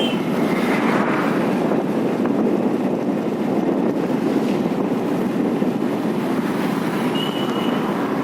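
Heavy monsoon rain pouring steadily. A brief thin high tone sounds about seven seconds in.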